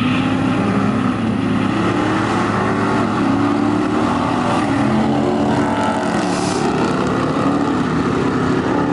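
Dodge Hemi V8 car engine running hard, its revs climbing and dropping several times.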